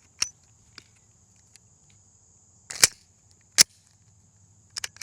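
Gunshots on a shooting range, single sharp reports at irregular intervals, the two loudest close together about three seconds in. A steady high-pitched insect buzz runs underneath.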